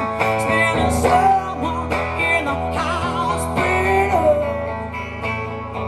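Live music: a woman singing with guitar accompaniment, sustained sung notes over repeated guitar chords.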